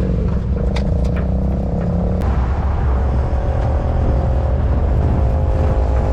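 Pickup truck driving, heard from its open bed: a steady low engine and road rumble, with a few light ticks about a second in.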